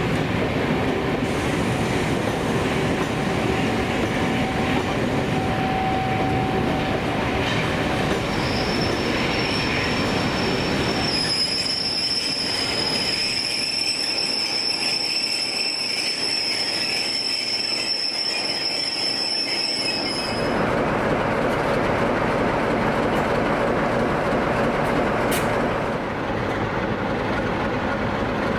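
A train running through on the rails, with a steady high-pitched wheel squeal that sets in about a third of the way in and lasts about nine seconds.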